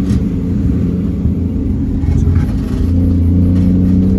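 Car engine running at low revs, a steady low rumble.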